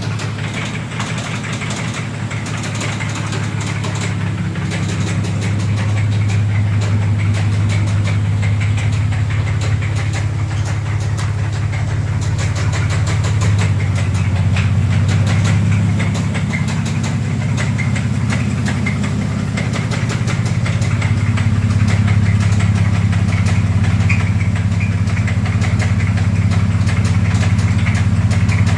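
2004 Dodge Dakota's 3.7-litre V6 running with a heavy, rapid knock, which the owner calls horrible rod knock after the engine ran out of oil and lost oil pressure. It gets a little louder about a fifth of the way in and again about two-thirds through.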